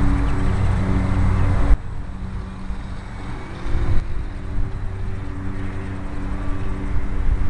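Micro RC airplane's electric motor and propeller droning in flight, a steady hum. The hum drops abruptly about two seconds in and carries on more quietly. Gusty wind buffets the microphone underneath.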